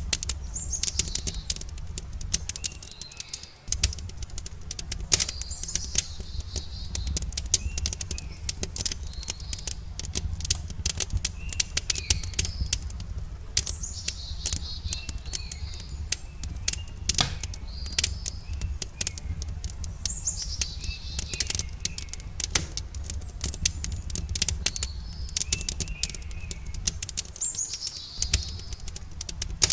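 Wood campfire crackling with many sharp pops and snaps, over a steady low rumble. A bird repeats a short sweeping call every two to three seconds.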